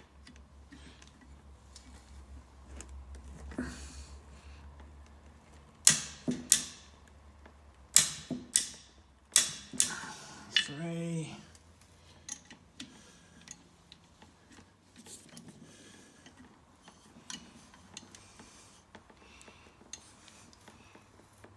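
Hand tools on engine fasteners: sharp metallic clinks and knocks in a cluster about a third of the way in, then scattered small ratchet-like ticks as nuts are tightened in sequence on a VW air-cooled engine.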